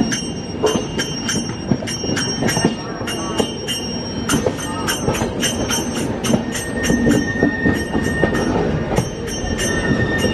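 Passenger train coach rolling, heard from on board as it comes into a station: wheels clicking irregularly over rail joints and points, with thin high squeals and a clearer squeal for about two seconds past the middle.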